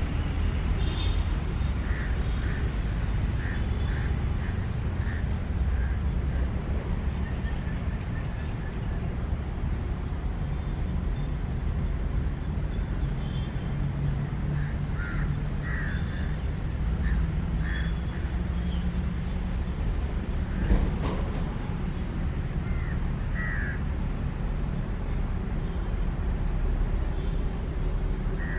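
Low, steady rumble of an electric locomotive and its passenger train approaching slowly through junction crossovers, with birds calling at intervals over it and one sharp click about two-thirds of the way through.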